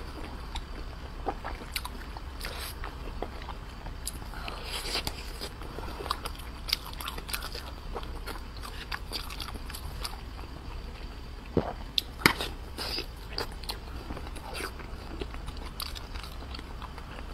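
Close-miked chewing of a soft, saucy braised dumpling stuffed with pork and egg: wet mouth clicks and smacks throughout, with a few sharper clicks about twelve seconds in.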